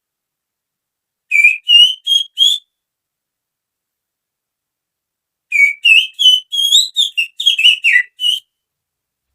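Finger-whistled imitation of a female oriental magpie-robin (kacer) call. A quick phrase of four high, chirpy notes comes first, then after a pause of about three seconds a longer run of about ten notes that slide up and down in pitch.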